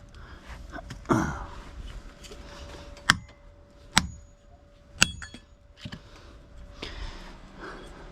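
Small pieces of scrap metal being handled and tossed while sorting: a dull knock about a second in, then three sharp clinks with a short ring, about a second apart.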